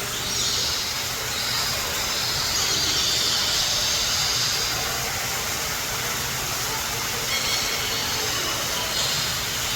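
Indoor waterfall rushing in a steady, even roar of falling water.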